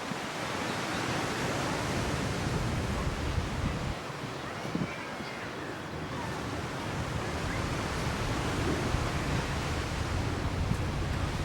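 Ocean surf washing onto a beach: a steady rush that eases a little about four seconds in and builds again.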